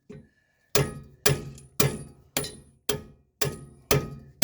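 Hammer blows on the steel strut, driving it into its stubborn suspension bushing: sharp strikes at an even pace of about two a second, each with a brief metallic ring, starting about three quarters of a second in.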